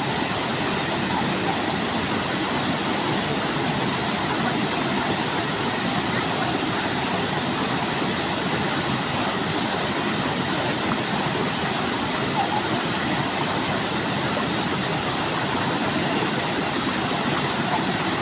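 Waterfall rushing in a steady, unbroken stream of water noise.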